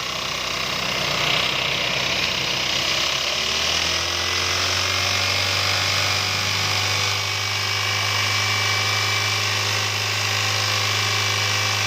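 Toyota Avanza 3SZ engine running, its pitch rising and then settling into a steady drone about three to four seconds in. The mechanic says this engine knocks because water drawn in through the throttle body bent a connecting rod.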